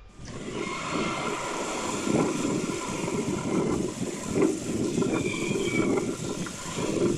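Jet airliner engines running on a landing approach that ends in a go-around, mixed with gusty wind on the microphone.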